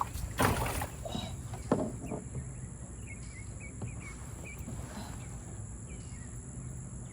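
A couple of sharp knocks in the first two seconds, then a bird chirping faintly in short repeated calls over low outdoor background noise.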